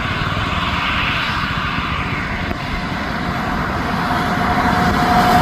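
Road noise from a large vehicle, most likely a bus: steady engine and tyre rumble that grows louder near the end as it approaches. A steady high tone joins in near the end.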